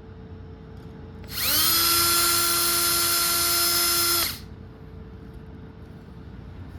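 Small electric drill spinning up and running at a steady pitch for about three seconds, then stopping, as it drills out a rivet.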